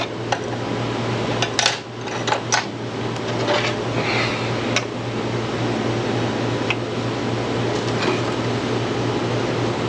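Scattered sharp metallic clinks of hand tools on a motorcycle's chain adjusters and rear axle over the steady hum of a shop fan.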